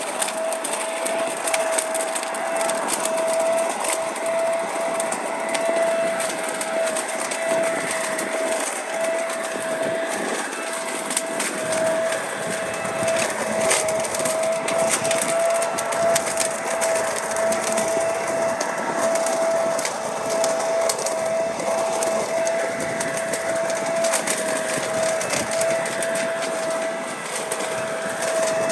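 Corded electric leaf vacuum-mulcher running with a steady whine, sucking up leaves that crackle and rattle as they are shredded.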